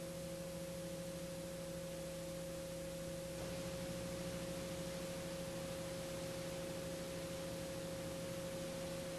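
Faint, steady drone of a TPE331 turboprop engine at ground run-up: a few steady tones over a hiss, growing slightly louder about three and a half seconds in.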